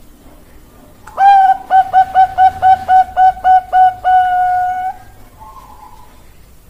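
Zebra dove (Bangkok perkutut) singing its cooing song: a long opening note, then about ten quick clipped notes at roughly four a second, ending in a long held note. A fainter short note follows.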